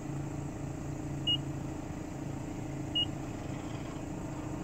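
Car engine idling with a steady low hum, heard from inside the cabin, with a short high beep repeating about every second and a half.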